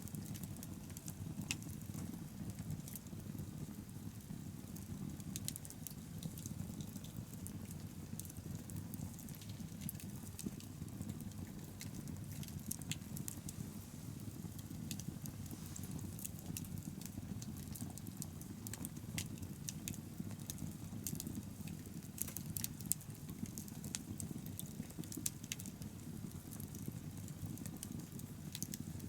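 Wood bonfire burning, with irregular sharp crackles and pops over a steady low rumble.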